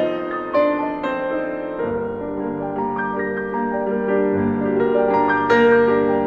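Background music: piano playing slow, sustained chords and melody notes.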